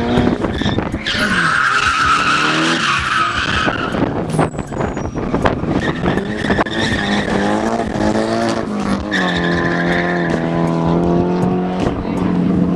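Drift car's engine revving hard, its pitch climbing and dropping as the throttle is worked, with a loud tire skid from about a second in for a few seconds; near the end the engine is held at steady high revs.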